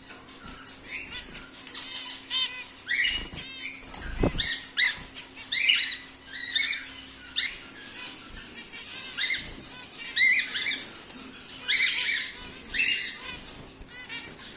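Cockatiels making repeated short, pitched chirping calls, many in quick succession, over a faint steady hum. A single low thump comes about four seconds in.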